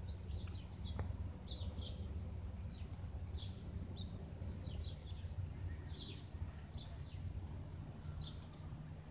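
Small birds chirping, with short high calls coming every fraction of a second, over a steady low drone.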